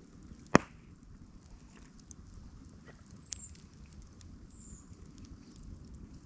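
A single loud, sharp crack about half a second in, then a fainter click near the middle, over a quiet background of small ticks and a few brief high chirps.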